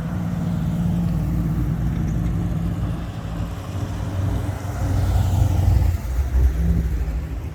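A classic car's engine rumbling deeply and sounding tough as it drives slowly past, the rumble swelling about five seconds in.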